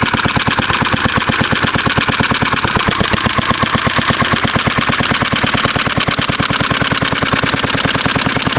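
Fairbanks Morse Z style D single-cylinder stationary engine running on its own shortly after a cold start, warming up with rapid, even exhaust beats.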